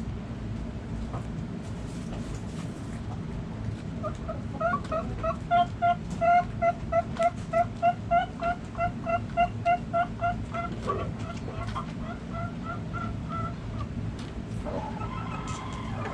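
A chicken calling in a long run of short, evenly pitched clucks, about three to four a second, loudest in the middle and trailing off. A shorter call follows near the end, over a steady low background rumble.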